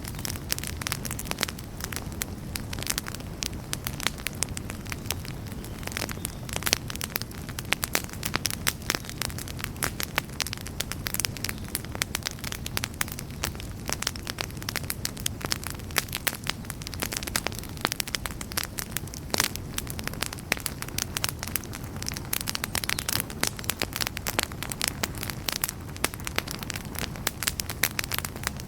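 Campfire crackling steadily: dense, irregular pops and snaps of burning wood over a low, steady rush of the flames.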